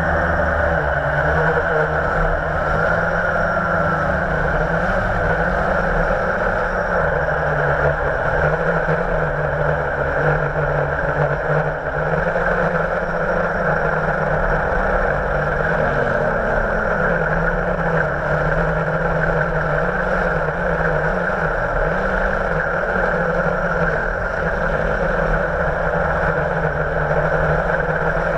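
Blade 350 QX quadcopter's electric motors and propellers running steadily, their low hum wandering up and down in pitch as the throttle changes.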